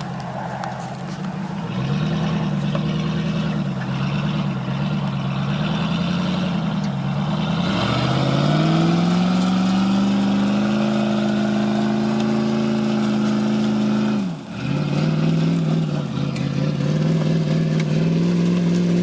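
Pickup truck engine revving hard under load while a stuck truck's wheels spin and dig in. The engine note wavers, climbs and is held high, drops off sharply for a moment about two-thirds of the way through, then picks up again.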